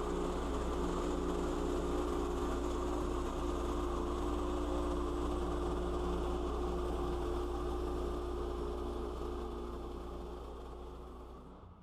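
Engine of a log-cutting saw running steadily at a constant pitch, fading out near the end.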